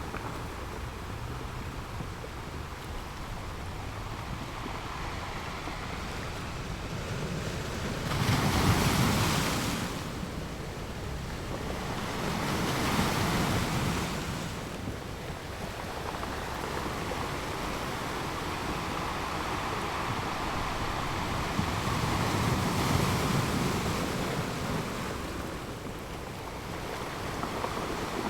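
North Sea surf breaking and washing up a sandy beach, with waves swelling loudest three times, about a third of the way in, near the middle and again late on. Some wind buffets the microphone.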